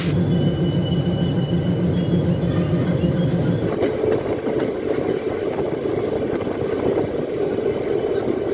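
Passenger train rolling slowly along the track, heard from its open coach door. A low hum and a faint high squeal last for the first few seconds, then the wheels rumble on with faint clicks over the rail joints.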